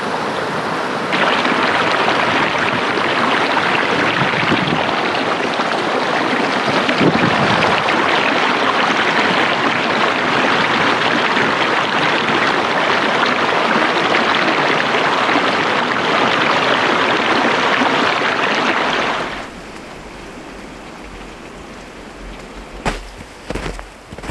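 Creek water rushing in a steady loud wash, which cuts off suddenly about nineteen seconds in, leaving a quieter background with a few sharp knocks.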